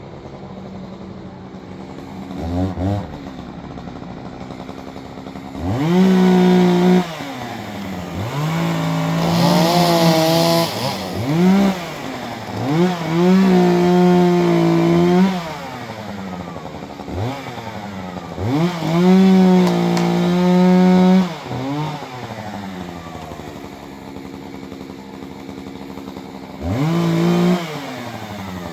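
Two-stroke chainsaw idling and revving up again and again, each time held at full throttle for a second or two before dropping back to idle.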